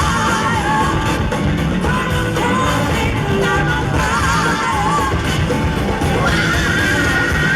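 A live soul-rock band playing loudly, with a vocalist singing wavering, vibrato-laden lines over the band, then holding a long high note near the end.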